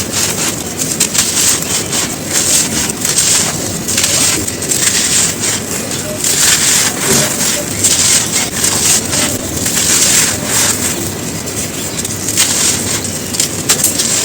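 Dry, gritty cones being crumbled and crushed by hand: a continuous crunching crackle that swells and eases every second or so.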